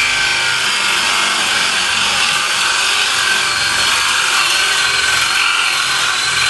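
Woodworking power tool running steadily as it cuts into wood.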